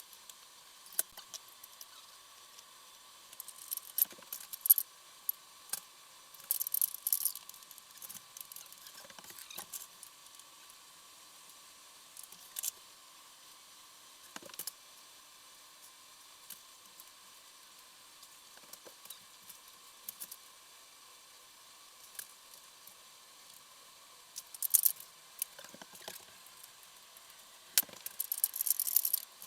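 Hand tools and small metal parts clinking and rattling: scattered sharp clicks and taps, with short bursts of jangling about seven seconds in and again near the end.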